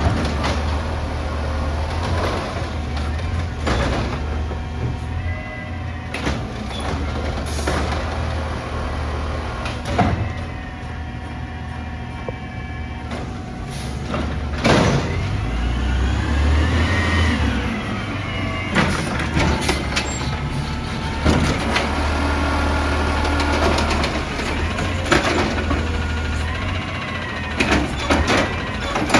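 Amrep garbage truck at work: its diesel engine runs steadily, a hydraulic whine rises and falls, and sharp bangs and knocks come at intervals.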